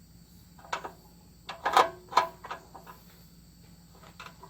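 A few knocks and clunks from the heavy homemade model army truck being handled, loudest in a quick cluster a little under two seconds in.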